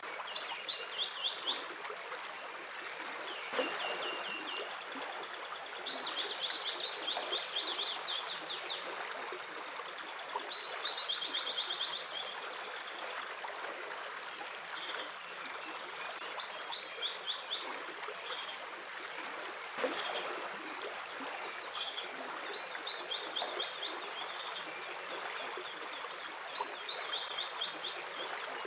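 Flowing stream with songbirds singing over it. The birds give short phrases of fast, rapidly repeated high notes again and again.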